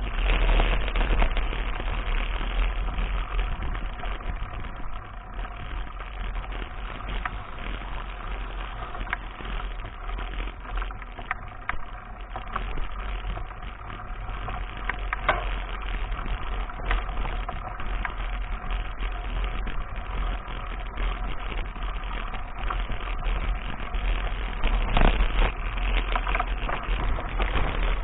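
Mountain bike ridden along a dirt farm track: steady wind rumble on the action camera's microphone, with tyre noise on the ground and scattered clicks and rattles from the bike over rough ground.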